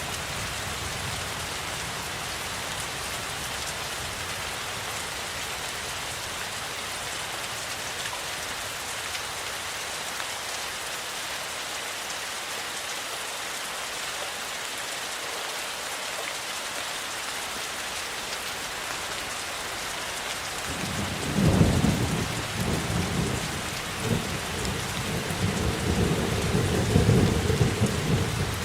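Steady rain falling. About two-thirds of the way through, a long roll of thunder rumbles in, swelling and surging several times until nearly the end.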